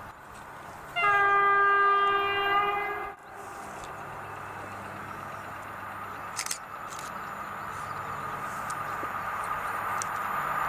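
Electric locomotive horn sounding one steady blast of about two seconds, about a second in. It is followed by the rising rumble of the EP07 locomotive and its train approaching, growing steadily louder.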